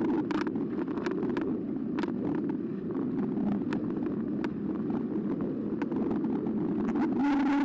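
Carbo X eBike riding along a path: steady tyre and rolling noise with frequent small rattles and knocks from bumps. A steady whine sets in near the end.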